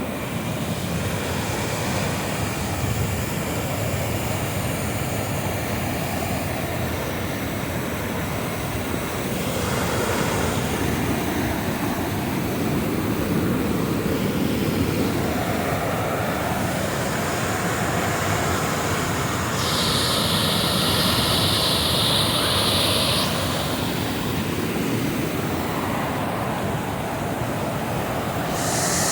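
Steady rush of creek water and spillways, the hiss swelling and easing as the sound shifts, with a sharper, brighter hiss for about three seconds some twenty seconds in.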